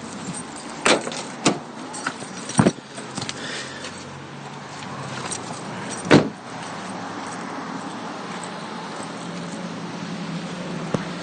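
Several sharp knocks and clicks over the first few seconds, the loudest about six seconds in, then a steady low hum of a vehicle engine.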